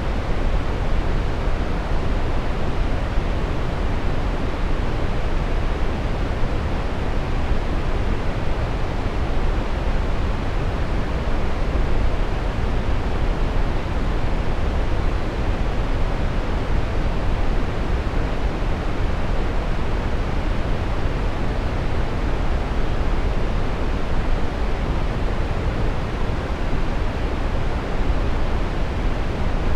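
Steady brown noise: an even, deep rushing hiss, strongest in the bass and dull in the treble, with no change in level.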